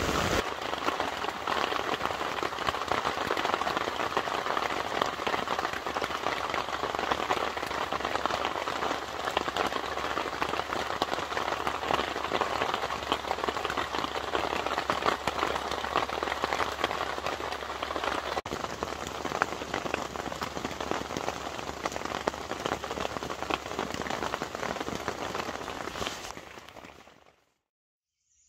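Rain falling steadily on a tent, heard from inside: a dense patter of many drops on the tent fabric. It fades out near the end.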